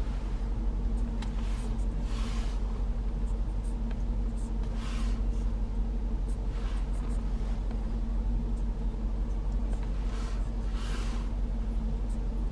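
Steady low rumble and hum inside the cabin of a Range Rover Sport SVR, its 5.0-litre supercharged V8 idling. A few short, soft rustles come and go over it.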